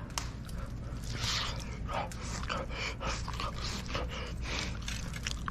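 A person eating a hot roasted sweet potato, chewing and breathing in and out through the mouth in quick huffs, about two a second, to cool the hot mouthful. Small sharp crackles from the wood fire come through.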